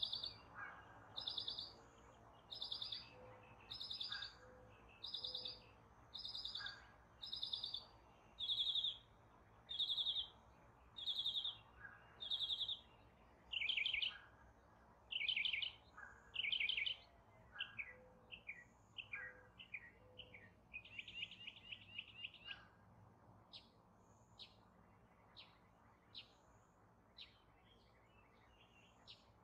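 A songbird singing a repeated trilled phrase about once a second, changing about halfway through to quicker falling notes and a short fast trill, then fainter short notes near the end. A faint, low three-note call sounds twice in the background.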